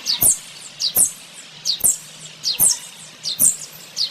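Sparrow chirping: short, high chirps that drop in pitch, repeating at an even pace about once a second.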